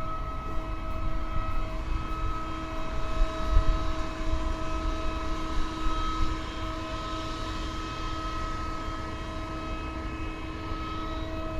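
Distant jet aircraft at an airport: a steady whine of several tones, with a rush of jet noise that swells around the middle of the clip over an uneven low rumble.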